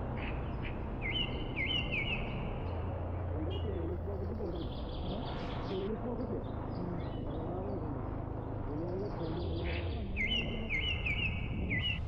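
Forest bird calling: quick runs of short rising chirps, once about a second in and again near the end, over a steady low rumble.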